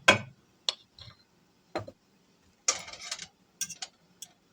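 Sharp clicks and clinks of kitchen utensils and containers being handled, a few knocks spaced over the seconds, with a brief rustling shake about three seconds in and a quick cluster of clicks near the end.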